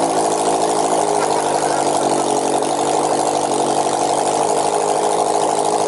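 Honda CBR650F's inline-four engine running loud and steady at idle with no exhaust system fitted, open headers only.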